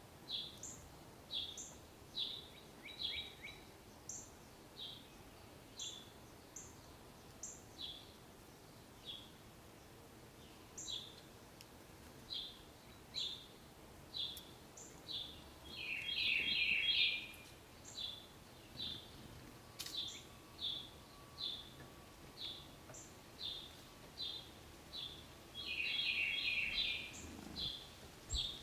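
Small birds chirping, short high chirps about once a second, with two bursts of rapid twittering about halfway through and near the end.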